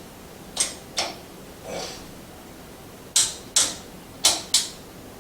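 A run of sharp clicks and clacks from kitchen handling, mostly in quick pairs: two early on, a softer duller knock near two seconds in, then two more pairs in the second half.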